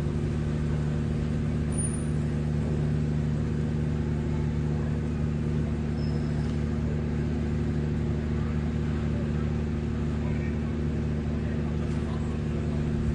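A machine running with a steady low hum that holds one pitch throughout.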